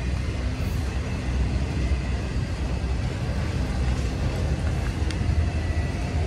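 Long freight train of autorack cars rolling slowly past: a steady low rumble of steel wheels on the rails.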